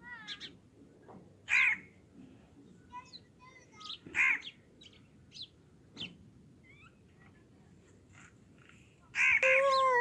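Bird calls: two loud, harsh calls a few seconds apart, fainter short chirps between them, and a long call near the end that falls in pitch.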